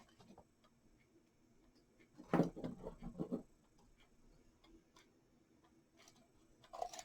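Quiet handling of artificial flower stems: a few faint clicks, then a short burst of rustling and knocking about two and a half seconds in.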